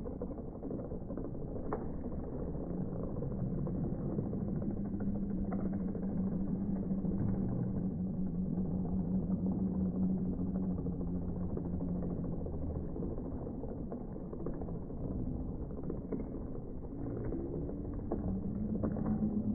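Slowed-down playback: a deep, steady rumble with a low, drawn-out hum through the middle and again near the end, and a few faint knocks.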